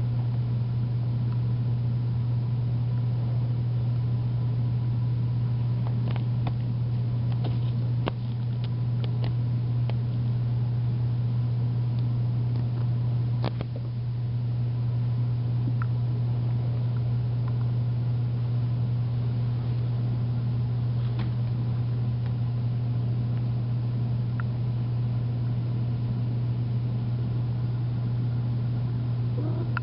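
A steady low mechanical hum that holds constant throughout, with a few faint clicks about six to nine seconds in and again near the middle.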